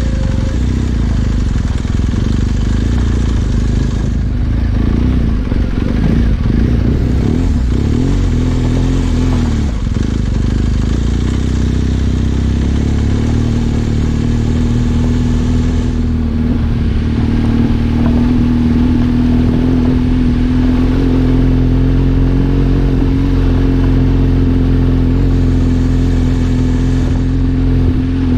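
Trail motorcycle engine running under way, its pitch rising and falling through the first half, then holding steady from about halfway on.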